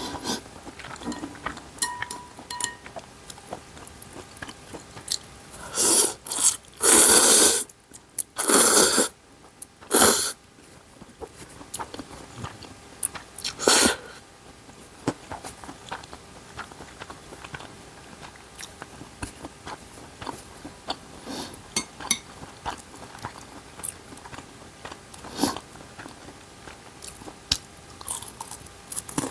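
Close-miked eating of ramen noodles and dumplings: steady chewing and biting with small wet clicks. A run of four loud rushing bursts comes between about six and ten seconds in, and one more near fourteen seconds.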